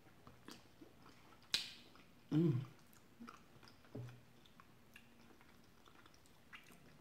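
Close-up mouth sounds of a person chewing a spoonful of rice in chicken tikka masala sauce: small wet clicks, one sharp smack about a second and a half in, and two short low hums from the throat about halfway through.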